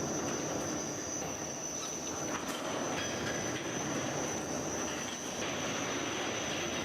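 Komman Monster Forceline 4200 automatic carpet washing machine running: steady mechanical noise with a thin, steady high whine.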